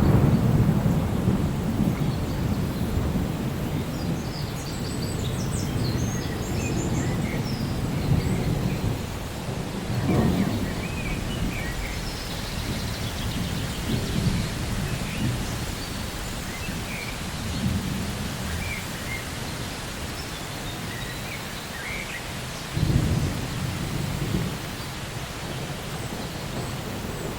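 Steady rain with rolling thunder. Low rumbles swell and fade several times: loud at the start, again about ten seconds in, and a sharper clap a few seconds before the end.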